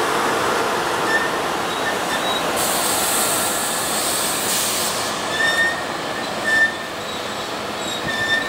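SEPTA Silverliner IV electric multiple-unit train rolling along the track, a steady rushing noise of wheels on rail, with several brief high-pitched squeaks.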